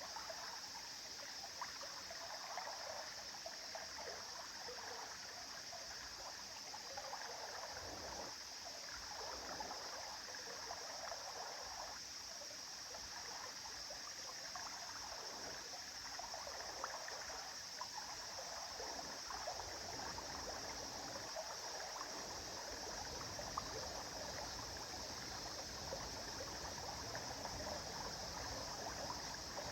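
A river or stream flowing steadily, with a babbling, gurgling texture of water over stones.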